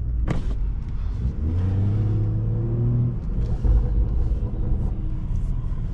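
BMW 540i's turbocharged straight-six with an aftermarket catback exhaust and downpipe, accelerating: the engine note climbs in pitch for about two seconds, falls off about three seconds in, then settles into a steady low drone.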